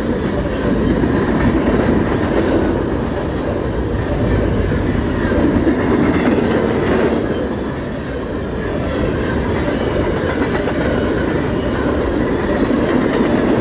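CSX freight train's high-sided open-top trash cars rolling past close by: a steady, loud rumble of steel wheels on the rails.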